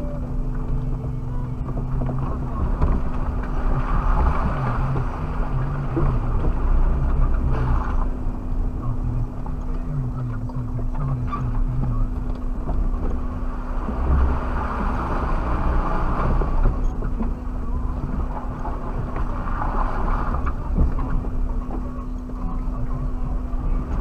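Suzuki Jimny driving off-road, heard from inside the cabin: the engine runs at low revs, its pitch stepping up and down with the throttle, over a steady hum and the rumble of the tyres and body.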